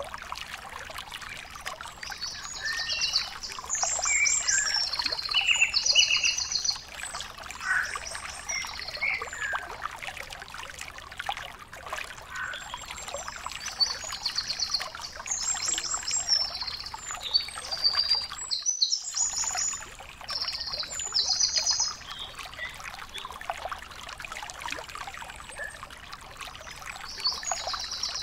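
Small birds chirping outdoors in repeated short, rapidly pulsed high-pitched bursts, over a steady crackling hiss. The sound drops out for a moment about two-thirds of the way through.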